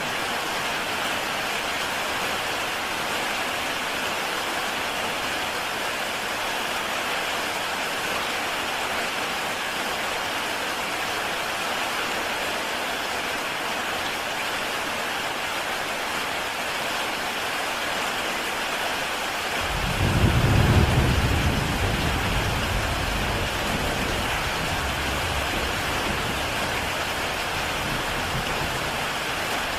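Heavy rain falling steadily on a tile roof, an even hiss. About two-thirds of the way through, a low rumble of thunder rises suddenly and fades away over several seconds.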